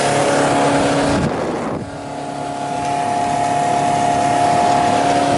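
Motorboat engine running steadily under way, mixed with wind and water rush. Its level drops briefly about a second and a half in, then builds back up.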